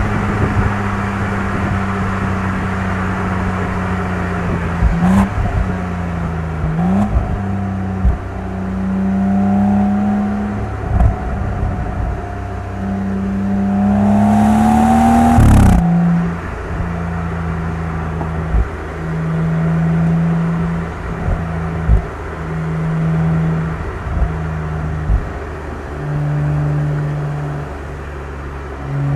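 BMW M135i's turbocharged inline-six engine and exhaust pulling through the gears: the pitch climbs and drops back at each upshift, with a few sharp cracks. Later it holds a lower, steady pitch that swells and eases several times as the throttle is worked.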